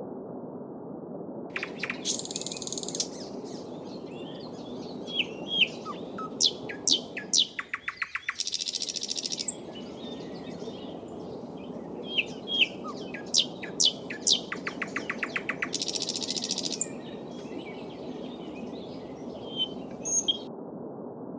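Steady babbling of a small stream, with small songbirds singing over it from about two seconds in until near the end: sharp chirps, rapid trills and buzzy high-pitched phrases.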